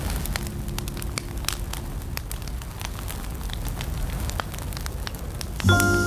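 Wood fire crackling: irregular sharp pops and snaps over a low rumble. Music comes back in near the end with a deep bass note and held tones.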